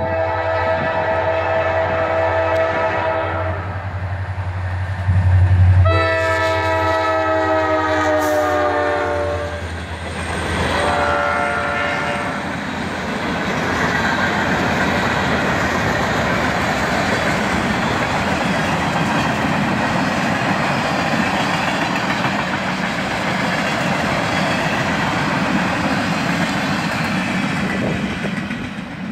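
CSX freight train led by a rebuilt GP38 road slug sounding its air horn three times over a low locomotive rumble: two long blasts and a shorter third, the second the loudest and sliding slightly down in pitch. After the horn, a steady rolling clatter of freight cars passing on the rails.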